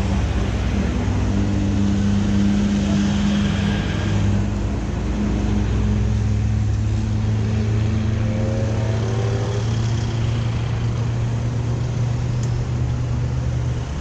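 Motorcycle engine running at a steady speed, a constant hum over a wash of road and wind noise, with faint rising tones about two-thirds of the way through.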